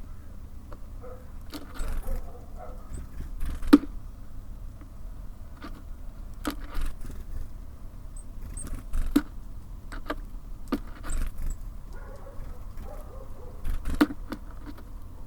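Small birds at a bird feeder: irregular sharp taps and knocks as they peck and land on it, the loudest about four seconds in and near the end, over a steady low rumble, with a couple of faint high chirps about halfway through.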